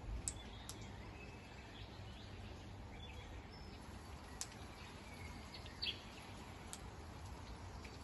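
About five brief, sharp bird chirps, scattered irregularly over a steady low background hiss.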